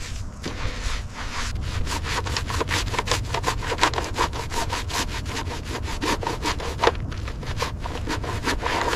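Rapid, rhythmic back-and-forth rasping strokes of a hand tool working a surface, about five strokes a second, over a low rumble.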